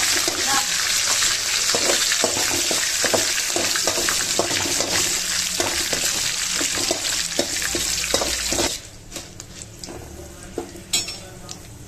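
Hot oil sizzling as dried red chillies and dal fry in an aluminium kadai, with a metal spatula scraping and stirring against the pan. The sizzle drops away suddenly about nine seconds in, leaving only faint clinks.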